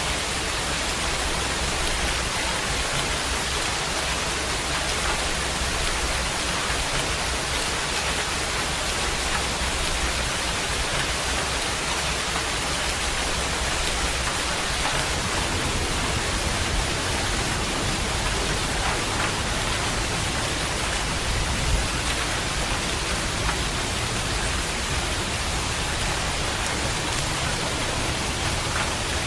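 Steady, even rain falling, a continuous hiss with no letup.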